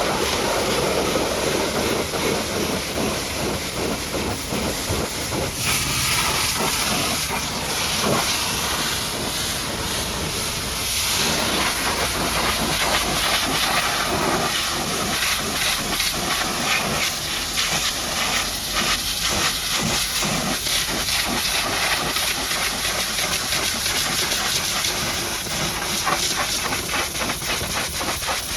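High-pressure washer jet spraying mud off a dump truck: a steady hissing rush of water whose tone shifts as the jet moves over different surfaces, growing brighter and sharper about six seconds in.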